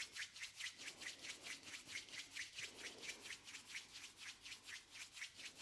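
A person rubbing the palms of their hands briskly together, a soft rhythmic swishing of skin on skin at about five strokes a second.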